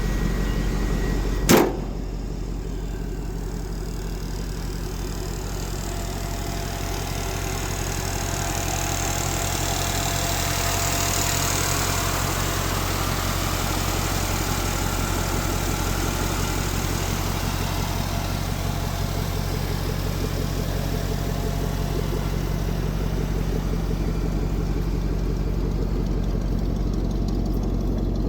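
The pickup's 5.3-liter LS V8 idling steadily, with one sharp thump about a second and a half in.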